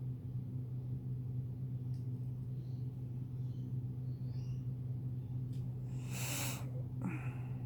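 Young butcherbird calling: a few faint high chirps, then a loud rasping call about six seconds in and a shorter harsh call just after, over a steady low hum.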